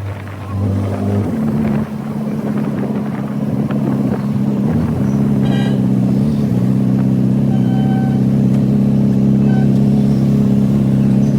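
Suzuki Hayabusa motorcycle's inline-four engine running at a steady cruising pitch, with a brief rise in pitch about five seconds in.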